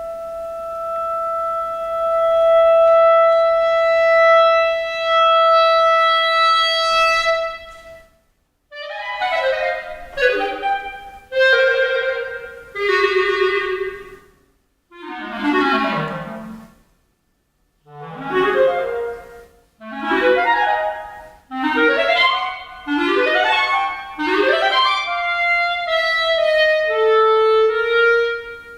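Solo clarinet: a long held high note that swells from soft to loud and breaks off about eight seconds in, then a series of fast runs and flurries sweeping up and down the range, separated by short pauses, ending on a held note.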